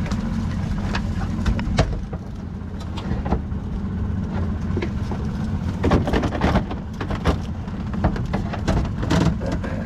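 A boat motor idling steadily, with scattered sharp clicks and knocks as mud crabs and the crab pot are handled.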